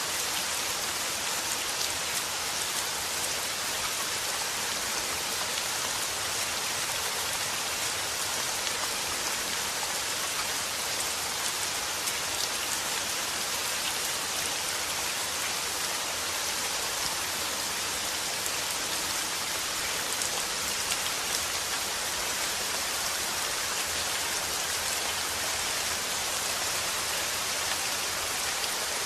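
Steady rain falling, with the hiss of many fine drops and small individual drop patters.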